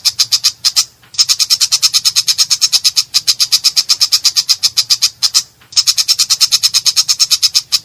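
Long-tailed shrike (cendet) giving a harsh, rapid chatter of about eight notes a second, in runs broken by short pauses about one and five and a half seconds in.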